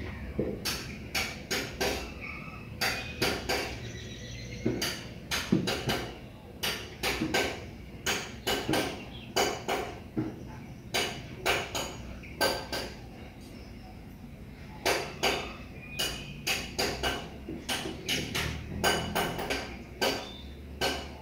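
Crisp cookies being chewed close to the microphone: runs of sharp, crunchy cracks, a few a second, with brief pauses between mouthfuls and a longer lull about two-thirds of the way through.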